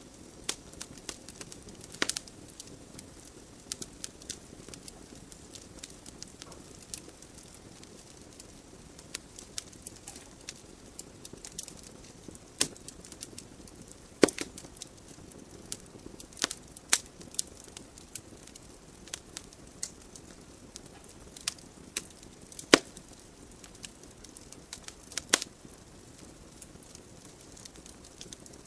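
Wood logs burning in a fireplace: irregular sharp crackles and pops, a few much louder snaps, over the soft steady hiss of the flames.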